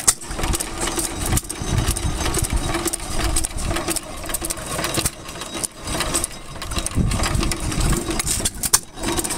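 Antique stationary gas engines running, a steady hum over an uneven low beat.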